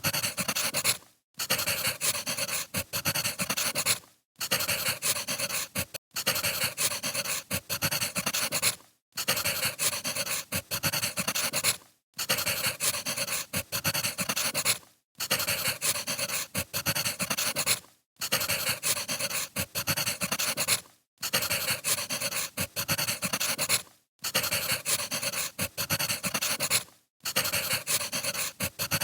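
Wood fire crackling and popping, as a steady ambience that drops out briefly about every three seconds.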